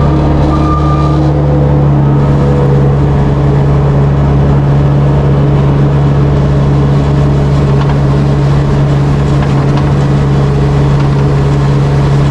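Engine of a piece of farm loader equipment running steadily with a loud, even low hum. A reversing alarm beeps once near the start.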